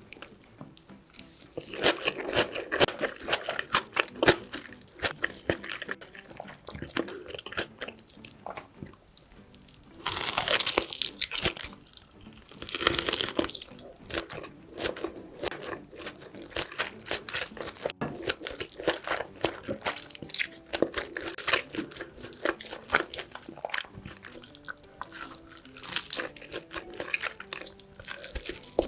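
Close-miked biting and chewing of braised pork back ribs with kimchi, a run of small clicks and mouth noises. It grows louder in spells about two, ten and thirteen seconds in.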